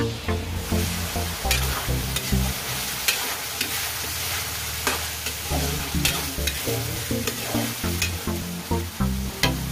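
Minced meat frying and sizzling in oil in a metal wok, stirred with a metal spatula that scrapes and clicks against the pan at irregular intervals.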